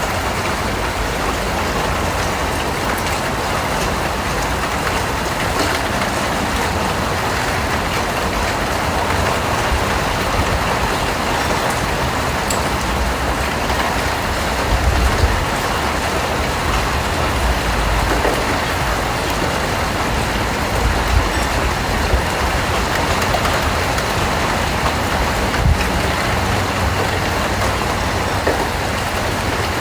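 Steady rain falling in a continuous hiss, with an uneven low rumble underneath.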